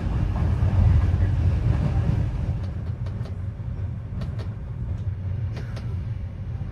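Low, steady rumble of a passenger train running on the rails, heard from inside the carriage, with a few faint sharp clicks in the second half. The rumble eases slightly after about two seconds.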